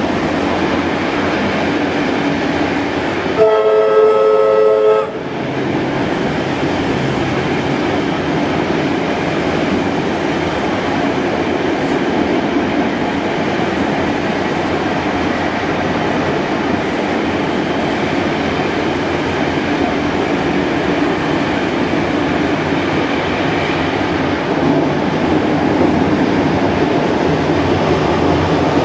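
Steady running noise of a train, heard through an open carriage window as it runs at speed. About three and a half seconds in, a whistle sounds once, a single chord lasting about a second and a half, louder than the running noise.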